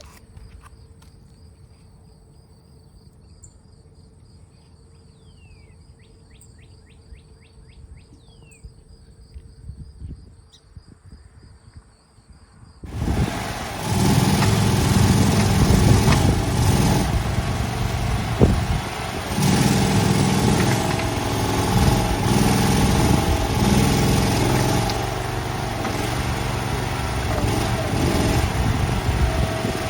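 Steady insect trilling with a few short bird chirps, then about 13 seconds in a loud engine cuts in and keeps running, its pitch and level shifting with load.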